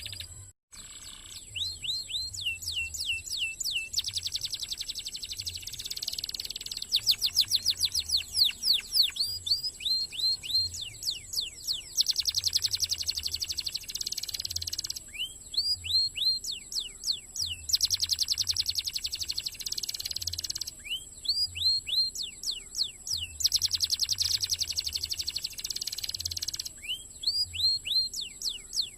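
Domestic canary singing a long, fast song, alternating runs of quick down-slurred whistled notes with rapid buzzy rolls, after a brief break just after the start.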